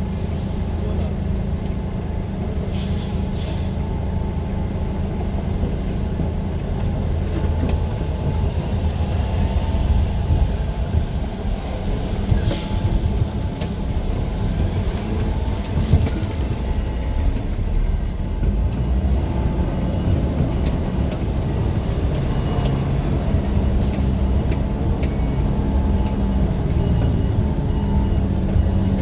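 Steady low engine and road rumble of a moving vehicle, likely heard from inside a bus, with a few short hisses.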